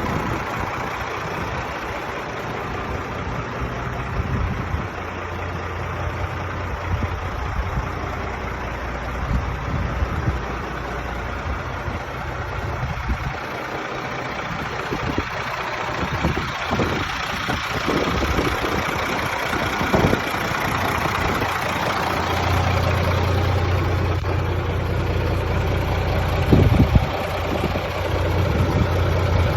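Ford 8210 Series 3 tractor's turbocharged six-cylinder diesel engine idling steadily. Its low hum grows louder about three-quarters of the way through, and a few short knocks sound over it.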